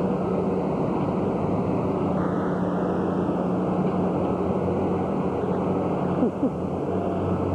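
Steady traffic and street noise with a constant low hum underneath.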